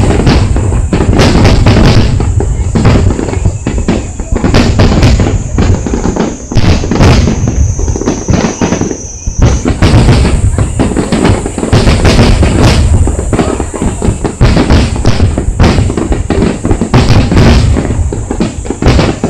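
Fireworks bursting in quick succession, a dense run of booms and crackling bangs with hardly a pause, with music playing underneath.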